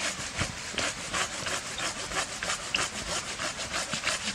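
Hand saw cutting through wet, rotten-feeling wood in quick, steady back-and-forth strokes.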